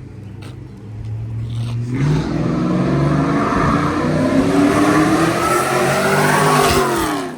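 A car engine accelerating hard under full throttle, its pitch climbing steadily for about five seconds, then falling and cutting off near the end.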